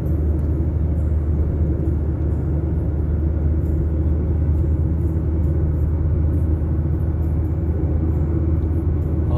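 Steady low rumble of a car on the move: engine and road noise with no change in pace.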